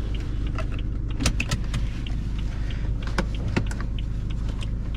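BMW car engine running with a steady low rumble, with a few sharp clicks or taps over it.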